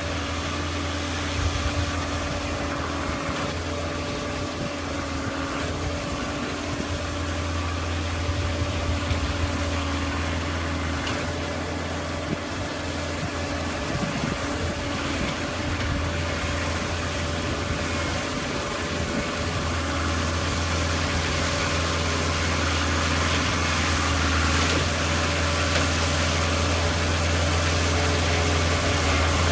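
Snowblower engine running steadily with an even hum, growing slightly louder toward the end.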